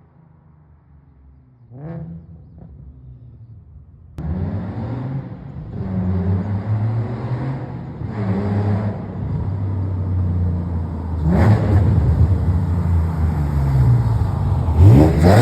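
Nissan 370Z's 3.7-litre V6 exhaust, through longtube headers and a 3-inch true dual catback: faint at first with two short rev blips, then suddenly much louder about four seconds in and revving up and falling back several times, the loudest rise near the end.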